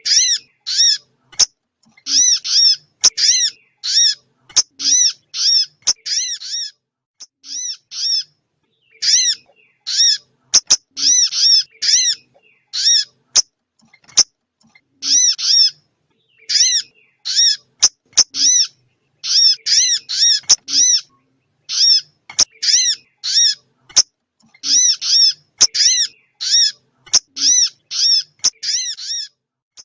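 Small-bird call from a bird-trapping lure recording on an MP3 player: short, sharp, high-pitched notes, each rising then falling, repeated quickly in runs of several with short pauses, over and over. A few sharp clicks fall between the calls.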